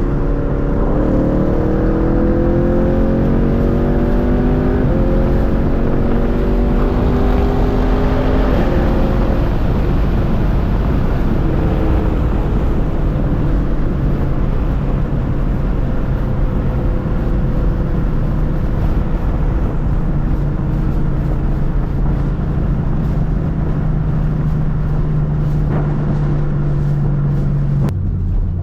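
Muffler- and secondary-cat-deleted 2023 Camaro SS 6.2-litre V8 exhaust accelerating, the pitch climbing and dropping back at upshifts of the 10-speed automatic over the first eight seconds or so, then settling into a steady low drone while cruising.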